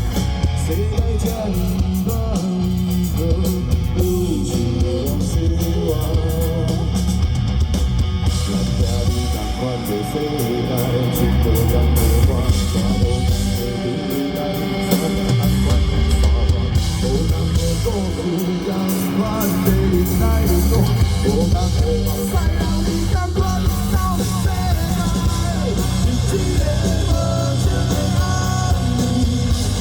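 Rock band playing live: electric guitar over bass and a driving drum beat.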